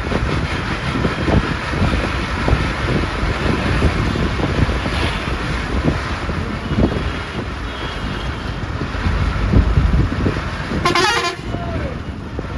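Bus on the move, heard from inside: steady engine and road rumble with frequent knocks and rattles, and a short warbling horn blast about eleven seconds in.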